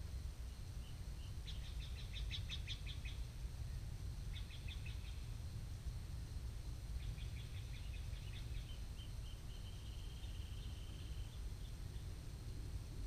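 A small songbird singing: three short bursts of quick, evenly spaced high chirps, then a longer high trill lasting a couple of seconds. A steady low rumble runs underneath.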